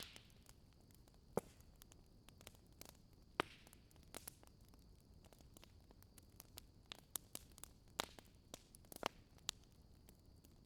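Wood fire crackling: irregular sharp pops and snaps of burning wood, a few louder ones among many faint ticks, over a faint steady high hiss.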